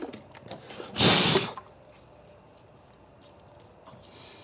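A short puff of compressed air from a blow gun, a hiss lasting about half a second that starts about a second in, followed by a few faint clicks of handling.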